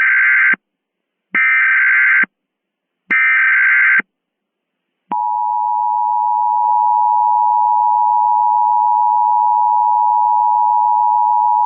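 Emergency Alert System tones: three short bursts of SAME header data tones, each just under a second long, then from about five seconds in the steady two-tone EAS attention signal, marking the start of an emergency alert broadcast.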